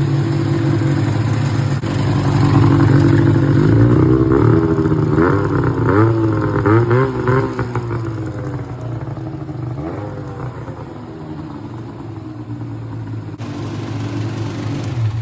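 Two-stroke snowmobile engine idling and being blipped: the pitch rises and falls several times about four to seven seconds in, and once more near ten seconds.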